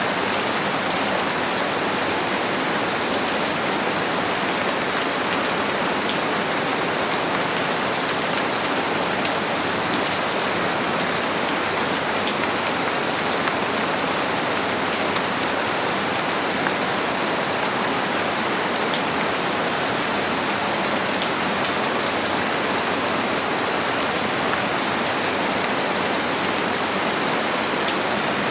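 Steady rain falling on a surface: an even hiss made of many fine drop ticks, with no thunder.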